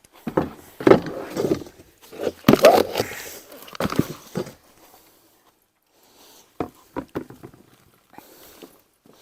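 Close rustling and knocking from handling garden pots, plants and soil, in two busy bursts, then a few sharp clicks about seven seconds in.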